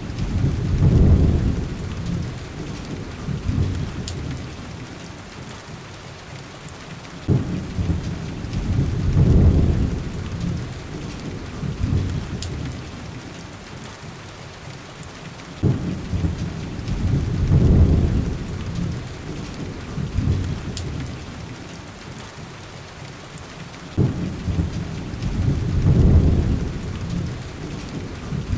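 Heavy rain hissing steadily, with a low rumble of thunder about every eight seconds, four in all, each starting with a sharp crack and swelling for a couple of seconds before fading. A few faint sharp crackles from a wood fire sound between them.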